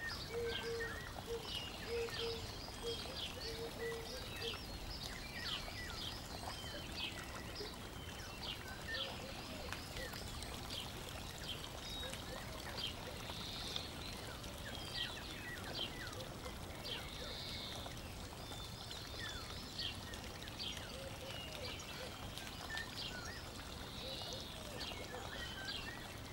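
Small birds chirping in short, quick calls, several a second, over a soft even hiss, with a faint broken hum in the first few seconds.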